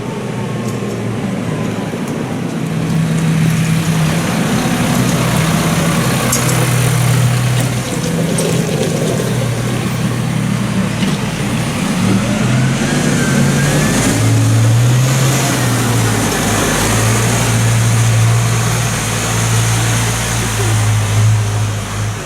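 Tractor engines running loud and steady, the engine pitch shifting up and down as the revs change.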